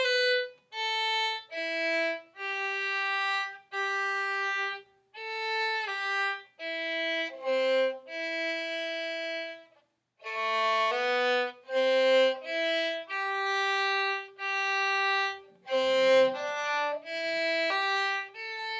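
Solo violin playing a simple melody, one bowed note at a time with some slurred notes run together, pausing briefly about ten seconds in before carrying on.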